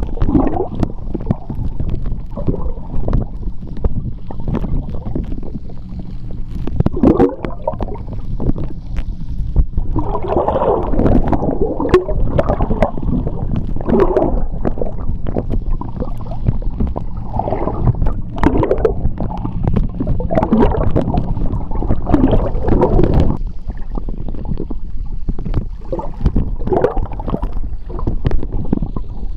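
Seawater heard underwater: a steady low rumble with irregular gurgling, bubbling surges and scattered faint clicks.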